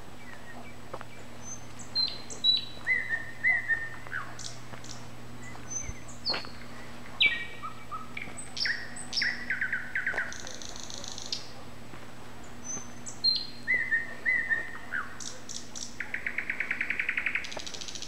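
A songbird singing varied short phrases of whistles, sharp notes and fast trills, with pauses between them, ending in a quick run of repeated notes. A steady low hum lies underneath.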